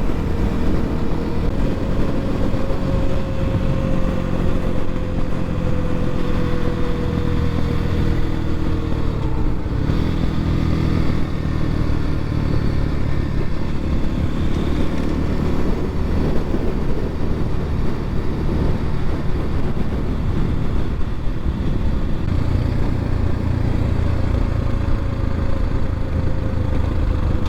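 Templar X 250 dirt bike engine running steadily while riding along, its pitch easing down slowly over the first several seconds.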